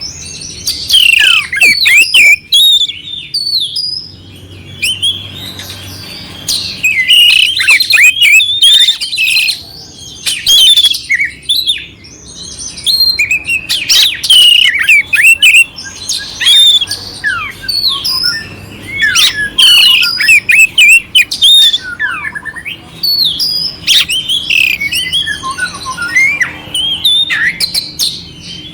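Oriental magpie-robin (kacer) singing loudly in bouts of a few seconds with short pauses between them. Each bout is a rapid mix of clear whistled notes and rough, harsh filler phrases.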